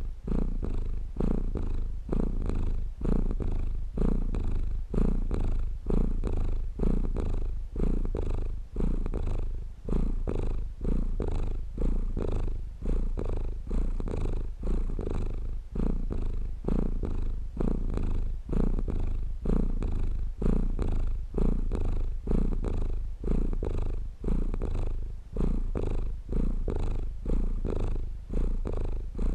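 Domestic cat purring close up, a low, fast rumbling that swells and fades in an even rhythm of roughly once a second with its breathing.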